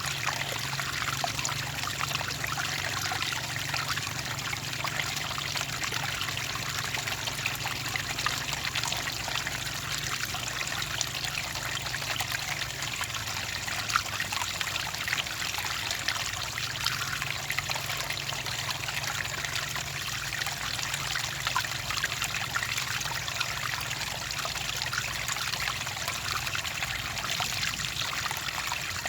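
Clear water trickling and splashing steadily, a continuous patter of small droplets and rivulets.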